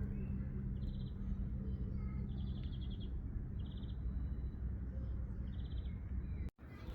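Songbirds singing: short, rapid trills repeated every second or so, over a steady low rumble of background noise. A low hum fades out about a second in, and the sound drops out briefly near the end.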